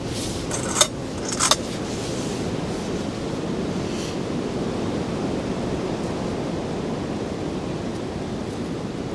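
Strong wind blowing steadily in a blizzard, with two short sharp knocks about one and one and a half seconds in.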